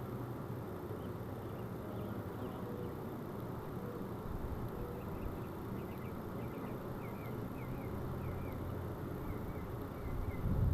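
Honey bees buzzing in a steady low hum around an open hive, with faint short bird chirps from about halfway through and a louder low rumble right at the end.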